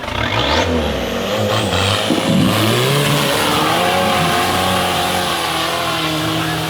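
Off-road 4x4 competition vehicle's engine revving hard under load, its pitch wavering up and down.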